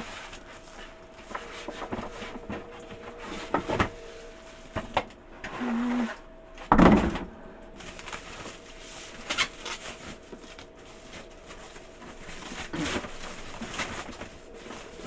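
Handling noise from unboxing a coffee maker: packaging and parts being moved about, with scattered clicks and knocks and one heavy thump about seven seconds in.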